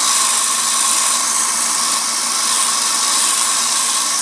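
Harbor Freight belt sander running steadily with a 40-grit belt, grinding the steel spine of a knife blade with a loud, even hiss.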